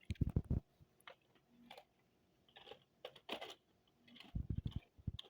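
Model train cars being handled and set in place, with quick clatters of clicks and knocks in two bursts, at the start and about four seconds in, and rustling in between.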